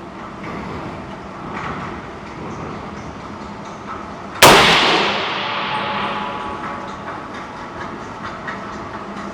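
A single 300 Blackout rifle shot about four and a half seconds in: a sharp, loud crack whose report dies away over about a second.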